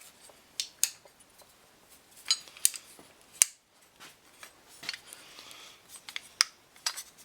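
Sharp metallic clicks and snaps, about eight at irregular intervals, as a truck door latch mechanism is worked by hand; the latch is stiff and not retracting properly, and has just been lubed.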